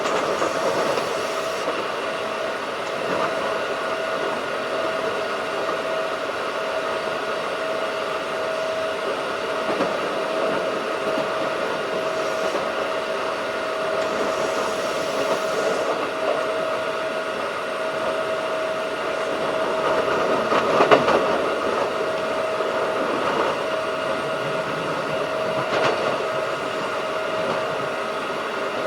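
Keikyu 1500-series field-chopper electric train running at speed, heard from inside the car: a steady rumble of wheels on rail with a constant whine. A sharp knock comes about two-thirds of the way through, and a lighter one a few seconds later.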